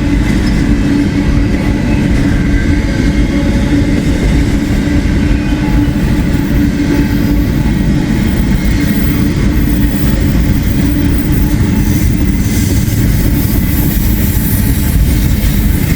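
Long freight train rolling steadily past, a continuous noise of wheels on rail from the passing cars.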